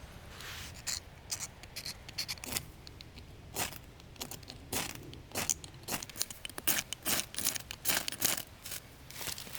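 Campfire kindling crackling and snapping irregularly as it catches, after a short scrape about half a second in.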